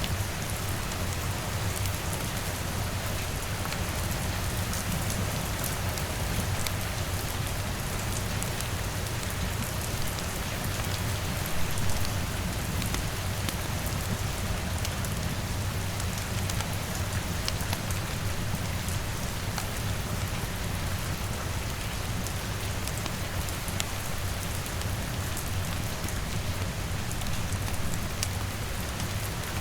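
Steady rain on a window with a fireplace crackling underneath, small scattered clicks over an even hiss, in a layered rain-and-fire ambience mix. The mix swells briefly about twelve seconds in.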